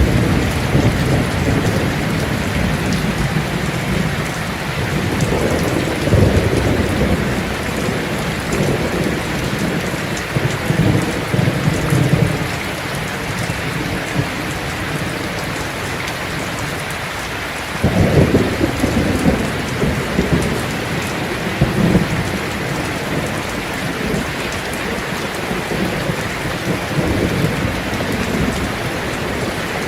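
Heavy rain drumming steadily on a tin roof, with rolls of thunder rumbling low underneath, one sharper and louder about two-thirds of the way through.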